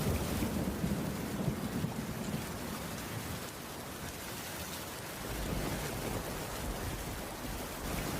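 Heavy rain falling on a cabin's wooden roof, a steady even hiss. A low rumble swells at the start and fades out after about two and a half seconds.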